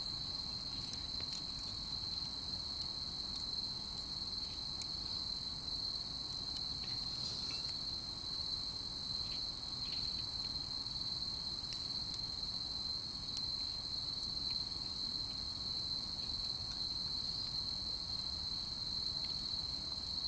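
Crickets trilling in a steady, unbroken high-pitched chorus, with a few faint ticks.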